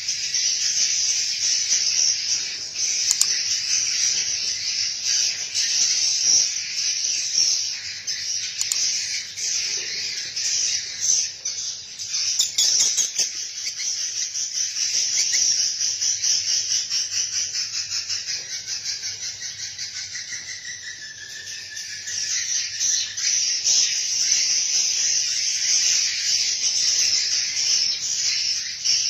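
Steady, dense chorus of high chirping and buzzing from insects and small birds, made of rapid pulses, dipping in loudness about two-thirds of the way through before picking up again.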